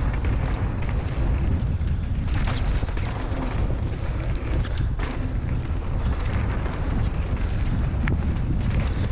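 Wind rumbling on the microphone during a bike ride on a trail, with a few short knocks and rattles from the bike over the bumps.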